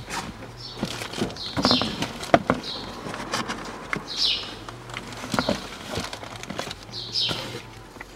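A bird chirping repeatedly, with short calls falling in pitch about once a second. Scattered light clicks and knocks sound among them; the sharpest comes about two and a half seconds in.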